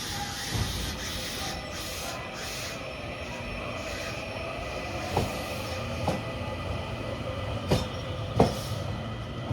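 Train moving along the platform track, with a steady running hum and faint whine. From about five seconds in come four sharp, unevenly spaced clacks of wheels over rail joints.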